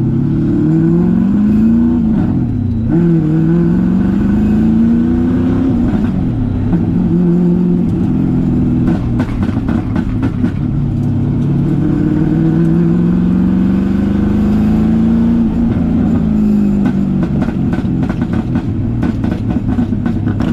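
LS V8 engine in a Nissan 350Z, running through a single wide exhaust pipe and not yet warmed up, revving up and down repeatedly. Clusters of sharp exhaust pops and backfires come about halfway through and again near the end, sounding like gunshots going off.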